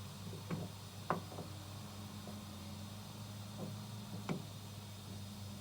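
A few light, sharp clicks and taps of hand tools on metal while a hydraulic cylinder's gland is taken apart, the sharpest about a second in and again past four seconds, over a steady low hum.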